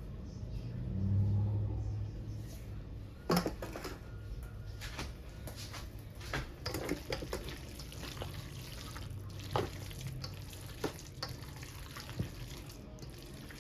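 Potato salad being stirred and scraped in a bowl, wet and mushy, with scattered knocks of the spoon against the bowl. A brief low hum about a second in.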